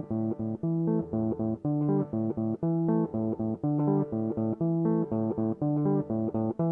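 Background music: a plucked guitar intro, with bass, playing a steady run of short picked notes.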